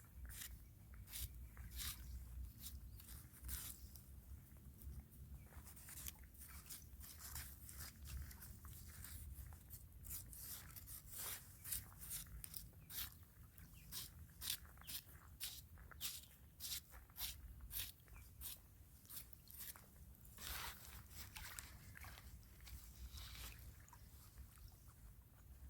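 Faint, irregular crisp clicks and crunches, several a second and bunched in clusters, over a steady low rumble.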